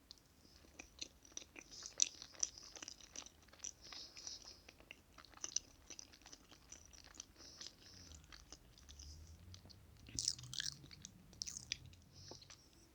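Close-miked chewing of soft chocolate cake: a steady run of small, irregular, wet mouth clicks, with a louder cluster about ten seconds in.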